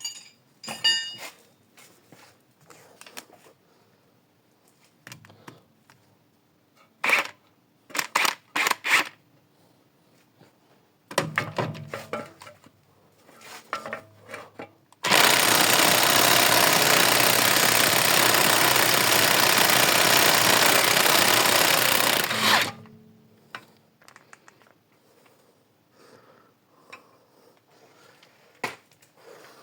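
A power tool running in one continuous burst about seven seconds long while a car's stabilizer link is undone, with scattered metallic clinks and knocks of tools against the suspension before and after it.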